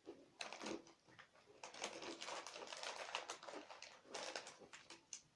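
Plastic snack wrappers being handled, crinkling in a quick, uneven run of small crackles.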